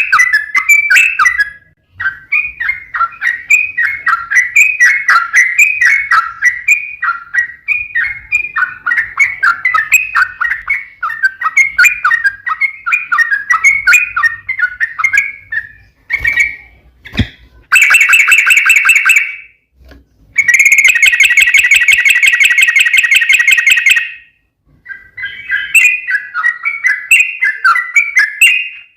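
Yellow-vented bulbul song: a long, rapid run of chattering, bubbling notes. After a brief break two louder, buzzy rattles come, one short and one lasting a few seconds, and then the chattering picks up again.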